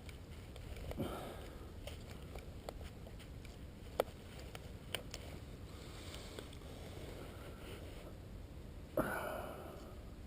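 Wind rumbling on the microphone, with a few sharp clicks about four and five seconds in and two short breathy bursts, one near the start and a louder one near the end.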